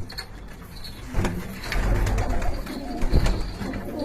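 Domestic pigeons cooing, with a couple of short thumps about a second in and again near the end.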